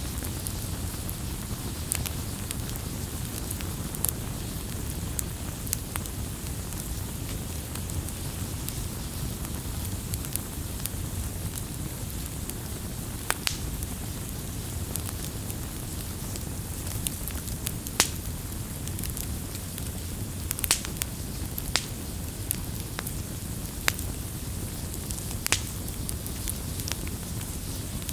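Wood bonfire burning: a steady low rumble of flames with irregular sharp crackles and pops, the loudest about eighteen seconds in.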